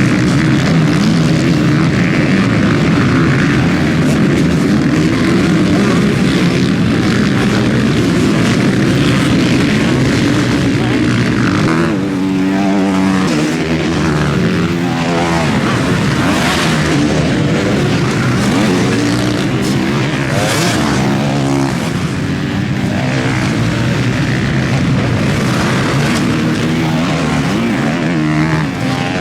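Several motocross bikes racing on the track, their engines revving up and down as the riders work the throttle and shift, with the pitch rising and falling as the bikes pass.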